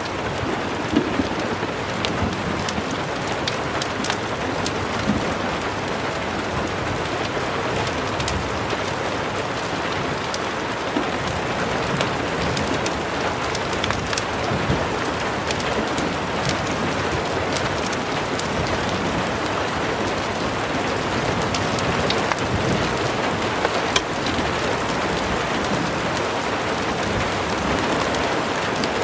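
Steady heavy rain, with scattered sharp pops and crackles from a fireplace mixed in, one louder pop about 24 seconds in.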